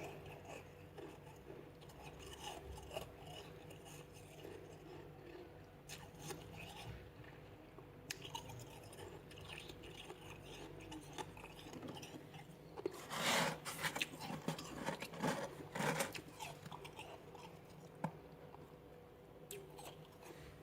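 A person chewing a mouthful of freezer frost, a steady run of small crisp crunches, growing into a louder burst of crunching about two-thirds of the way through.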